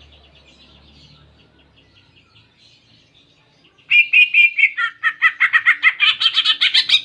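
Cucak ijo (greater green leafbird) singing a canary-style song. Soft chattering runs first, then about four seconds in a loud burst of quick repeated notes that speeds into a rapid rising trill and stops abruptly.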